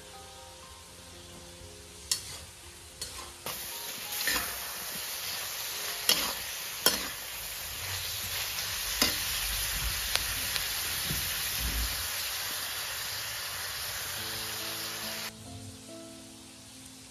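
Cured pork and peppers sizzling in a wok over a wood fire, stirred with a metal spatula that clicks and scrapes against the pan several times. The sizzling starts about three seconds in and cuts off suddenly near the end, with soft background music before and after it.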